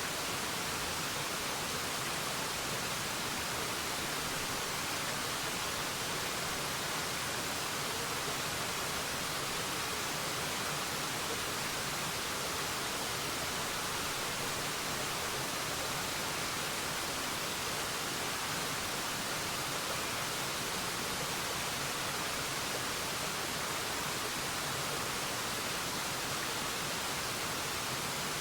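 Forest waterfall: a steady, unbroken rush of falling water, an even hiss weighted toward the high end with little low rumble.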